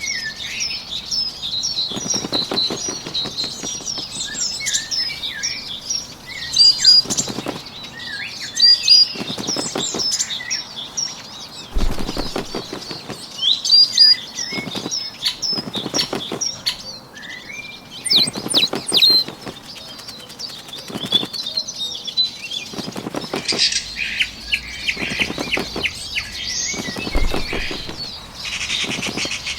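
Bird wings flapping in repeated flurries every second or two, over steady bird chirping and song.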